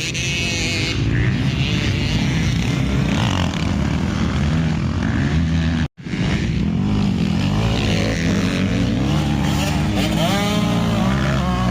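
Motocross bikes racing on a dirt track, their engines revving up and down as they accelerate and shift. The sound drops out completely for an instant about six seconds in, then the revving resumes, with a sharp rise and fall in pitch near the end as a bike passes.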